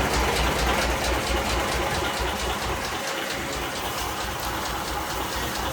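Tractor diesel engine chugging at a low, even beat under a loud, steady rushing noise.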